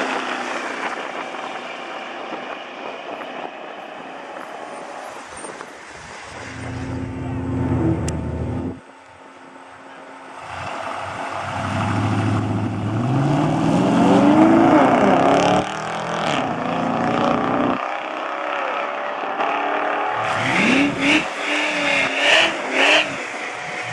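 Ford F-150 SVT Lightning's supercharged 5.4-litre V8, running with its catalytic converters removed, at a drag strip. The engine is held at steady revs and cuts off about nine seconds in. Then the truck launches, its pitch climbing steadily for about four seconds under full-throttle acceleration, with more sharp revving near the end.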